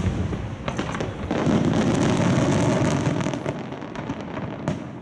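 Aerial fireworks shells bursting in quick succession: deep booms rolling into one another with sharp cracks and crackle on top. The barrage thins out after about three seconds, with one more sharp bang near the end.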